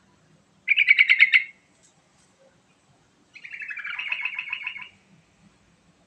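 Yellow-vented bulbul (trucukan) singing: two quick bubbly phrases of rapid notes, the first short, the second longer and falling in pitch.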